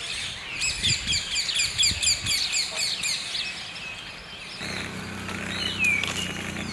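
Birds chirping: a fast run of high, repeated chirps for the first few seconds, then a few scattered notes and a single downward-slurred call near the end.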